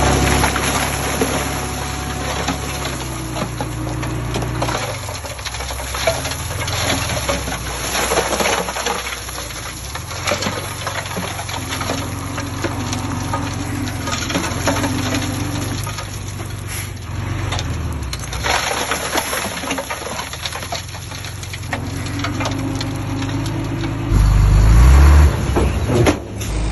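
Diesel engine of a heavy earthmoving machine running under changing load, with irregular clanks and crackles of metal and soil over it, and a louder low surge of the engine near the end.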